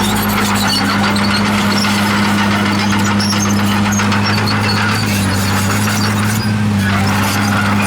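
Komatsu D51PX bulldozer's diesel engine running steadily, its pitch dipping slightly about five seconds in, with the high squeal of the steel tracks working.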